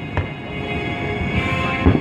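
Fireworks going off: a bang shortly after the start and a louder one near the end, over steady music-like tones.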